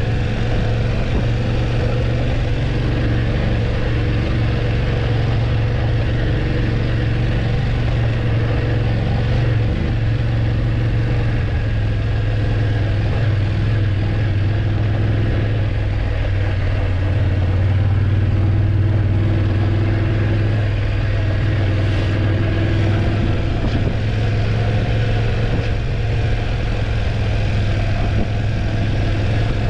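BMW F850GS motorcycle's parallel-twin engine running while the bike is ridden, its pitch dipping slightly about halfway through and rising again, over a steady rush of wind and road noise.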